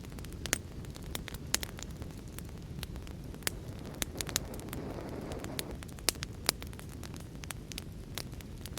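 Wood fire crackling with irregular sharp pops and snaps over a steady rush of rain. A brief swelling rush comes about halfway through.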